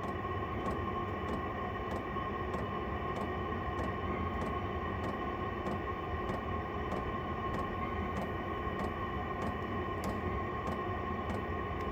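Vevo 5 kW diesel air heater running: a steady blower hum with a held whine, and a regular, even ticking typical of its fuel dosing pump.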